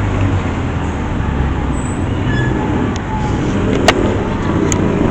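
Steady rumble of a running vehicle with road noise, and a sharp click a little before four seconds in.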